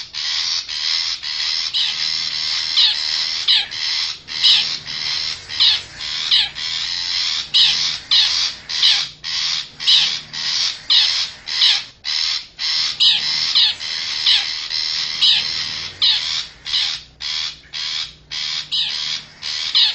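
Long-tailed shrike (cendet) calling in a fast, unbroken series of short scratchy calls, about two a second. This is a lure recording made to draw wild shrikes in.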